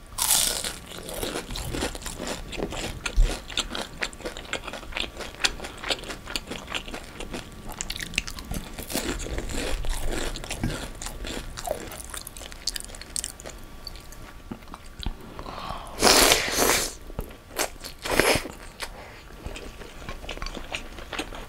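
Close-miked crunching of a bite into a fried spring roll (chả giò), followed by steady crackly chewing. Two louder bursts come about three-quarters of the way through.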